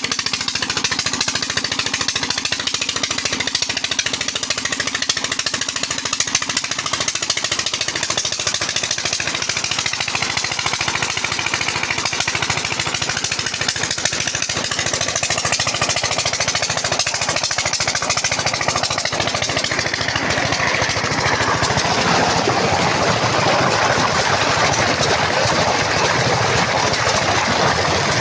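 Petter-type diesel engine driving a tube-well pump, running steadily with a rapid, even knock. About two-thirds of the way through the sound grows brighter and slightly louder.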